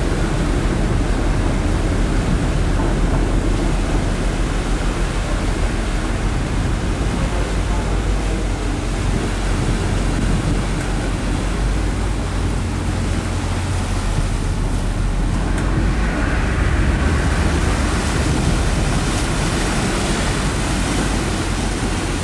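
Passenger ferry under way: a steady low engine drone under the rush of wind and water, with wind buffeting the microphone.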